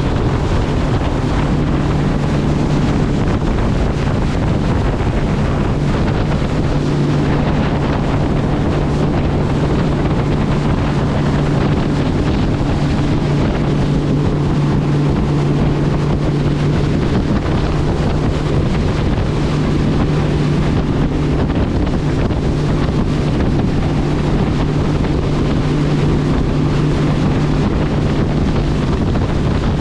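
Boat engine running steadily at cruising speed, an even low hum, under heavy wind buffeting the microphone and rushing water.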